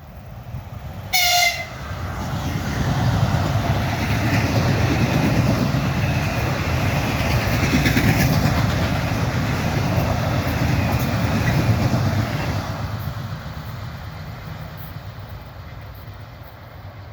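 Ivolga 4.0 electric multiple-unit train giving one short horn blast about a second in, then passing at speed; its rush of wheels on rail builds, stays loud for about ten seconds and fades away near the end.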